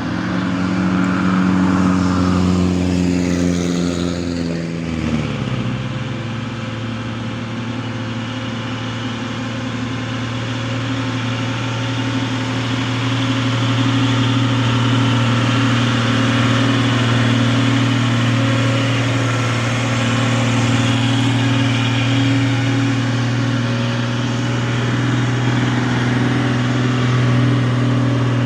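Truck engine running under load, its pitch dropping about five seconds in and then holding steady.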